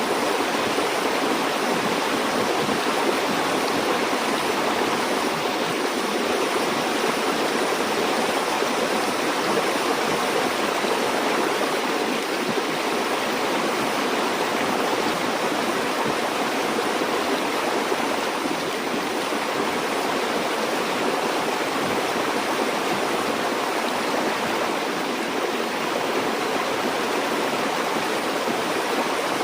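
Flowing river water: a steady, even rush of a stream over rocks.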